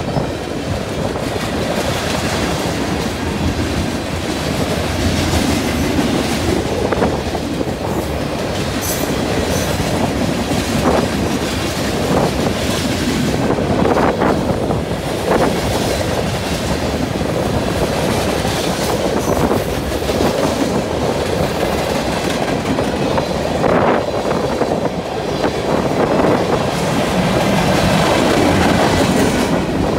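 Freight train cars rolling past close by: a steady rumble and rattle of steel wheels on rail, with occasional clacks as wheels cross the rail joints.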